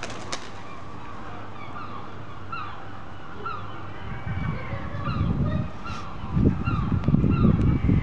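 Birds calling over and over in short, curved calls, with bursts of low rumbling noise that start about four seconds in and grow louder near the end.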